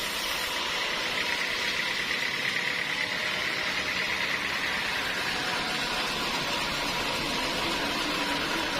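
Sawmill machinery running steadily, an even rushing noise with a steady high tone through it.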